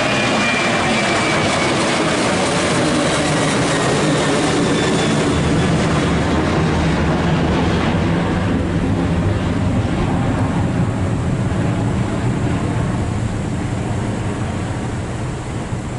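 Passenger airliner's engines, loud as the plane passes close, with a high whine sliding down in pitch over the first couple of seconds. The high end then fades and the noise slowly eases as the aircraft moves away.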